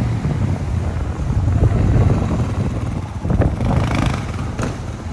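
Riding on a dirt bike: wind buffeting the microphone and the bike's engine noise running together, with a few brief gusty swells near the end.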